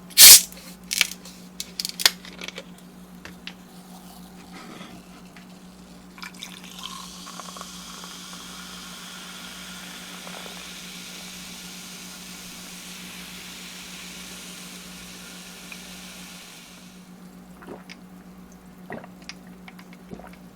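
A few sharp clicks and taps of food containers being handled, then about ten seconds of a steady hissing liquid sound.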